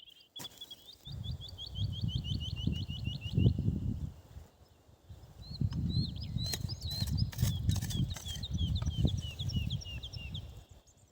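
A songbird singing rapid runs of short, evenly repeated chirps, one run at the start and a second from about halfway to near the end. Under it, louder low rumbling noise comes in two long stretches.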